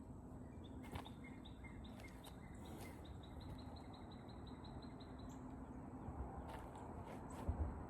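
Outdoor farm ambience: a bird gives a quick run of repeated high chirps for a few seconds over a faint steady hum. A few soft knocks come near the end.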